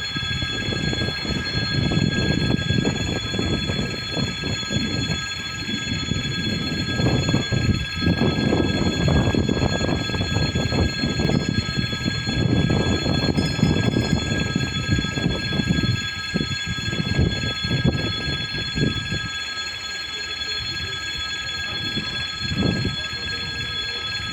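A ChS2T electric locomotive hauling a laboratory car as it departs: a rough rumble that swells and fades, with several steady high-pitched tones running over it.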